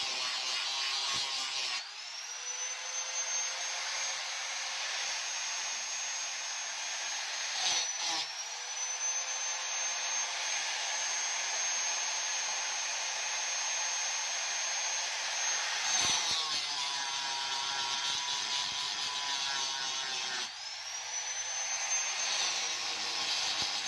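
Electric grinder used on a knife: the motor spins up with a rising whine about two seconds in and runs steadily. It cuts out and restarts briefly near eight seconds, turns to a rougher, lower sound for a few seconds past the middle, then spins up again near the end.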